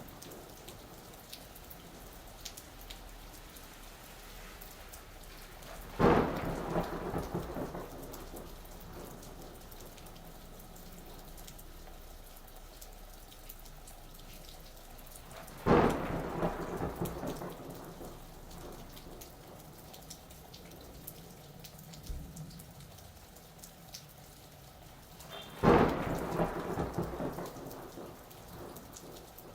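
Steady rain falling, with three sharp thunder cracks about ten seconds apart, each rumbling away over a couple of seconds.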